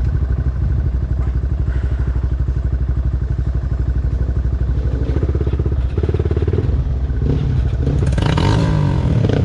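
Dirt bike engine running at low revs with an even, rapid pulse. Near the end comes a short, rougher burst of louder noise.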